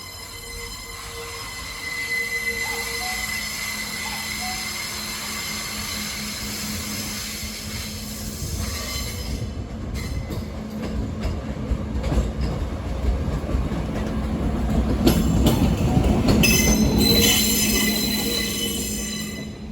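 A train running past, its wheels on the rails giving a high-pitched squeal of several ringing tones that dies away about nine seconds in. Then the wheels clack over rail joints while the rumble builds to its loudest, and the squeal comes back near the end.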